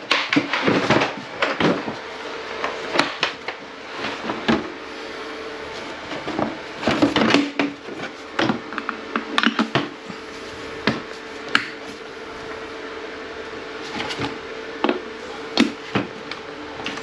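Irregular knocks, clicks and clatter of tools and equipment being handled, over a faint steady hum.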